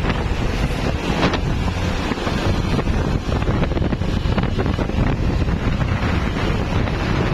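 Wind buffeting the microphone over a steady low rumble of road traffic from passing trucks.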